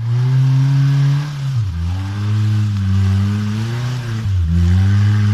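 Small off-road 4x4's engine revving hard under load as it climbs through deep mud. The pitch sags sharply twice as the engine bogs, about a second and a half in and again near four seconds, then picks back up each time.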